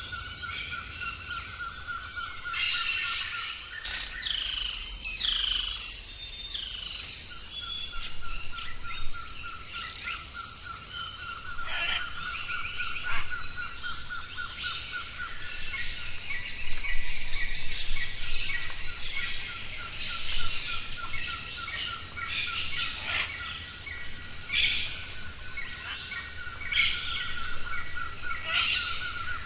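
Birds chirping and calling in a chorus of short, sharp calls over a steady, rapidly pulsing trill that drops out briefly twice.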